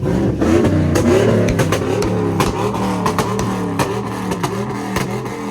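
Loud car engine revving up and down again and again, with sharp cracks scattered through it.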